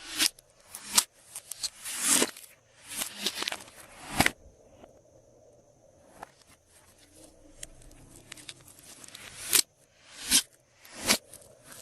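Hands working glossy slime, with sticky crackling and popping as it is pressed and pulled apart. It comes in short bursts, goes quieter in the middle, then gives three sharp snaps near the end.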